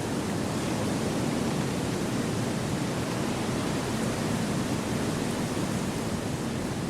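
Wind rushing through forest trees: a steady, even rush with no distinct gusts, creaks or other events.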